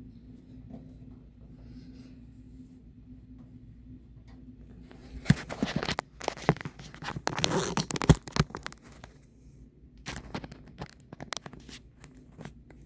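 1970s Superior Electric metal-bladed box fan humming steadily, with two stretches of loud, irregular scraping and clicking, the first about five seconds in and a shorter one near the end.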